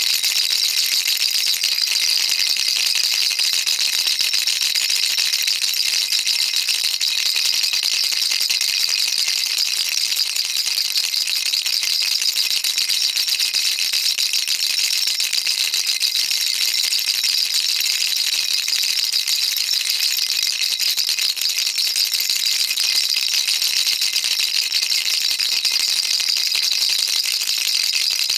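Baby rattle shaken continuously, its beads rattling in a dense, even, high-pitched stream of fine clicks with no pauses.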